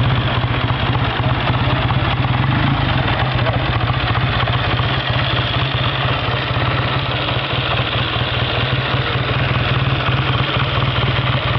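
1948 Triumph Speed Twin's 500cc parallel-twin engine idling steadily just after being kick-started, with no revving.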